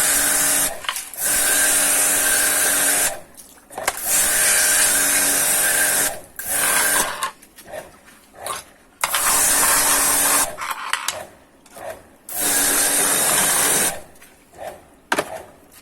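An electric power tool switched on and off in bursts of one to two seconds, about six times, each burst a loud hiss over a steady motor whine.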